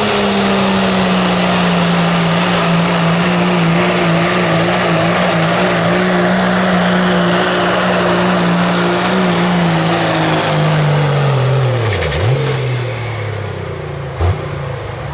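Diesel 4WD pulling truck's engine running hard at high, steady revs under load while dragging the sled, with a high steady whistle over it. About twelve seconds in the revs sag and drop away as the truck comes to a stop, the whistle falling with them.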